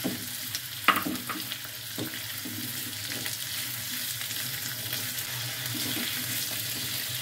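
Raw potato pieces and chopped onion sizzling in hot oil in a kadai while being stirred with a silicone spatula. The spatula knocks against the pan a few times around one and two seconds in.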